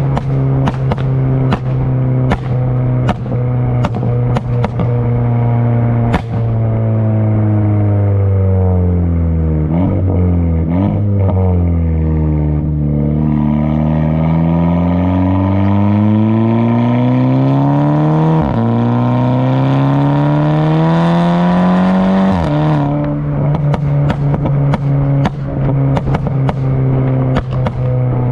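Tuned, turbocharged VW GTI with a Tomei exhaust and catless downpipe, driving. The engine's drone holds steady, then its pitch falls, climbs steadily for several seconds and drops abruptly, as at an upshift, before settling back to a steady note. Sharp, irregular cracks sound through the steady stretches at the start and end.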